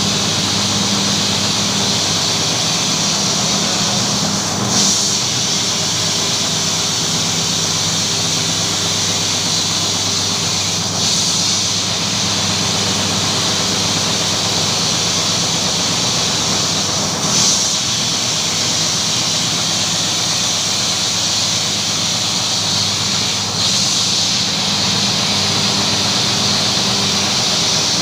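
Carpet-washing machine running steadily, a motor hum under a constant hiss, with a brief louder swish about every six seconds.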